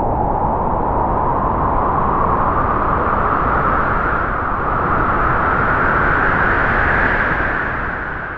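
Strong wind howling through trees in a long gust, its whistling pitch rising slowly to a peak about seven seconds in and then falling away as the gust eases.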